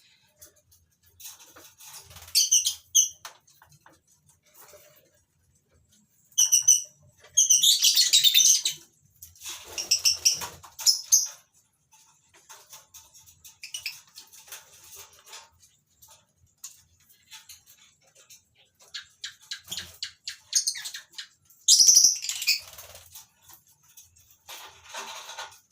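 Lovebirds giving shrill, high-pitched chirps in several loud bursts, with small clicks and rustling between the calls.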